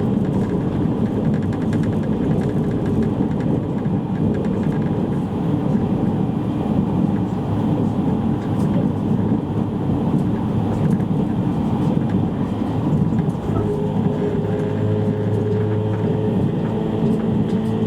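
Steady running noise of a JR East E653 series electric train at speed, heard inside a motor car: a continuous rumble of wheels on rail. A low steady hum and a higher tone come in for the last few seconds.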